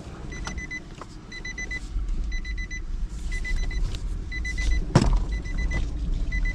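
Nissan Versa's dashboard warning chime repeating about once a second, each chime a quick flutter of high beeps, over a low rumble. There is one sharp knock about five seconds in.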